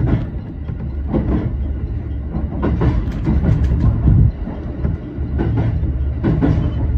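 Shinano Railway SR1 series train running, heard from inside the driver's cab: a steady low rumble with irregular clacks of the wheels over rail joints and points, a quick run of them about three seconds in.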